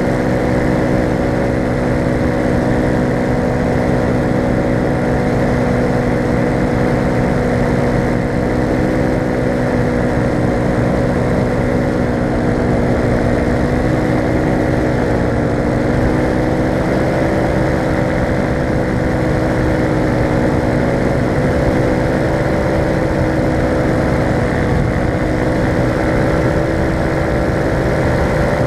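Falcon four-stroke paramotor engine and propeller running steadily at cruise throttle, the pitch wavering slightly about halfway through.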